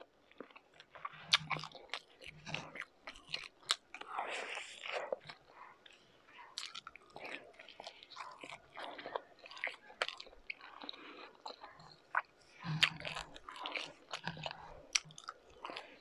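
A person chewing a mouthful of cured meat and rice, with many short mouth clicks and smacks.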